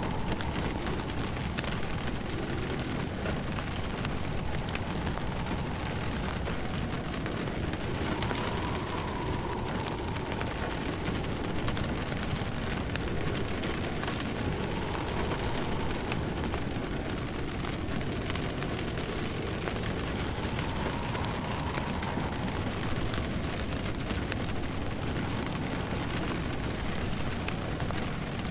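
Steady rain falling on a roof and window, mixed with a crackling open fire. A faint wind whistle swells and fades every several seconds.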